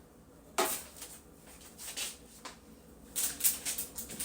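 Food containers and packaging handled during refrigerator clean-out: a sharp click about half a second in, a few lighter knocks, then a run of rustling and clattering near the end.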